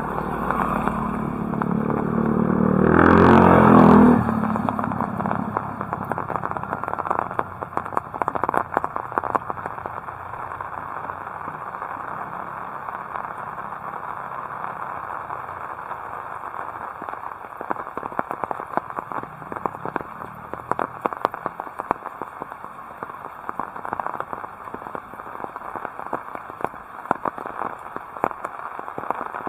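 Heavy rain falling, a dense steady patter of many small drop impacts. In the first few seconds a motor vehicle's engine passes close by, loudest at about three to four seconds in, then fades under the rain.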